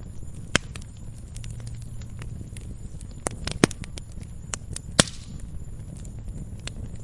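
Wood fire in a fireplace crackling, with scattered sharp pops (the loudest about five seconds in) over a low steady rumble of the flames.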